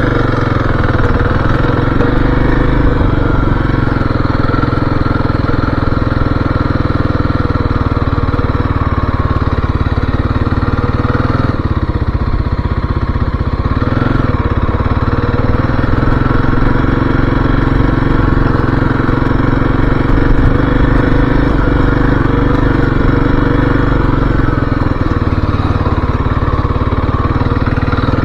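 2023 Kawasaki KLX-300's single-cylinder four-stroke engine running steadily while the bike is ridden, easing off briefly about halfway through.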